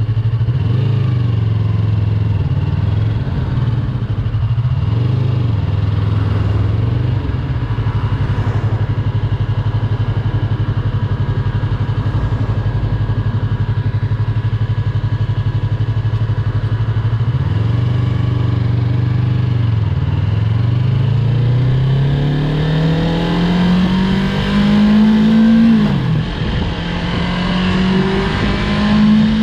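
Yamaha YZF-R3's parallel-twin engine running at steady low revs, with a few brief dips as the throttle is eased, then revving up as the bike accelerates, with a sharp drop in pitch at a gear change about 26 seconds in before it climbs again.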